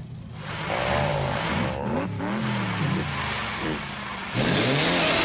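Cartoon car engines revving up and down again and again, growing louder about four seconds in.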